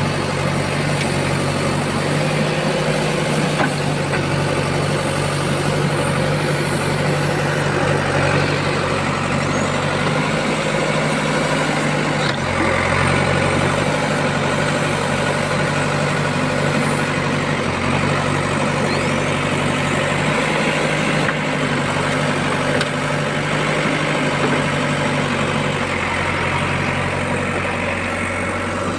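JCB 3DX backhoe loader's diesel engine running steadily at low speed, its note shifting slightly every few seconds.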